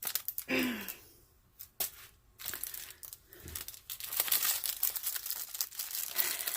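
Plastic packaging crinkling as it is handled and opened, in irregular bursts of crackle that become almost continuous after about four seconds.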